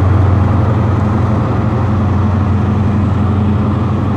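Diesel engine of a High Speed Train (InterCity 125) class 43 power car running under power as the train pulls out, a steady loud low hum.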